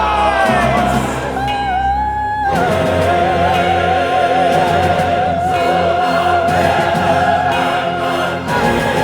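Orchestra and choir with an operatic solo voice. About two and a half seconds in, the soloist holds one long high note with wide vibrato for about six seconds, over sustained orchestral and choral chords.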